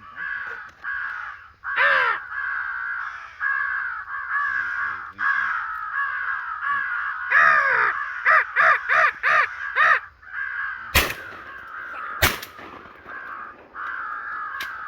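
Crows cawing over and over, with a quick run of caws about eight seconds in. Two shotgun shots follow about eleven seconds in, a little over a second apart.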